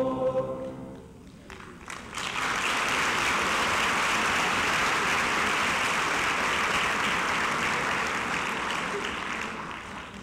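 The last held chord of a choir dies away about a second in. The audience then breaks into applause, which holds steady for several seconds and tapers off near the end.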